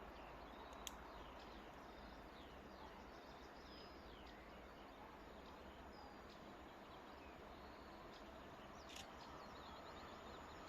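Faint outdoor ambience: small birds chirping and twittering over a steady low background hiss, with a couple of sharp clicks.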